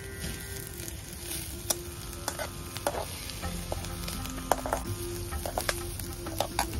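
Chopped onions and green chillies sizzling in oil in a metal kadai, with a flat metal spatula scraping and clicking against the pan as they are stirred.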